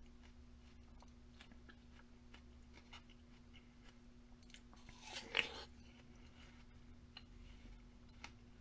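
Chewing: faint small crunches and clicks, with one louder crunch about five seconds in, over a steady low hum.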